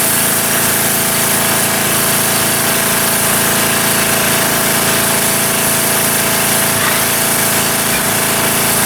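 A motor running steadily at an even level, a constant hum with a strong hiss over it.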